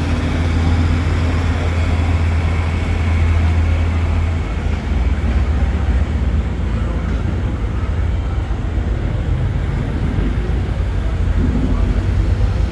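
Low, steady rumble of heavy engines running, its pitch dropping slightly about four and a half seconds in.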